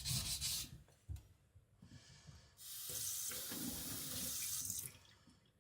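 Rhythmic strokes of the kiridashi's blade on a coarse whetstone stop under a second in. After a short pause, water runs steadily from a tap for a little over two seconds.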